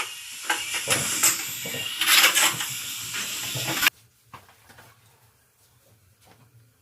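Scraping and knocking of brick and mortar work as refractory firebricks are set in mortar. The sound cuts off abruptly about four seconds in, leaving only a few faint taps.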